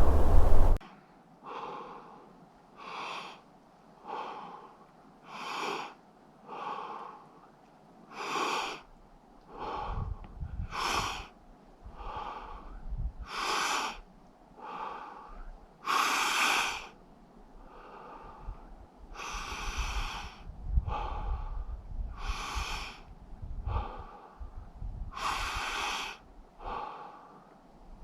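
A man's heavy, rhythmic breathing while sitting in icy water through a hole in lake ice: forced, deliberate breaths about once every second or so, worked to control the cold shock. The breaths grow louder from about halfway through.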